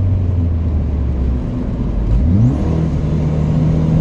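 Ford Fiesta ST's turbocharged four-cylinder engine with a 2J Racing aftermarket intake, heard from inside the cabin: a steady cruising drone that drops away about a second and a half in as it is taken out of gear. Just over two seconds in, the revs rise sharply as a lower gear is taken, settling into a steady higher note, with a faint high whistle rising.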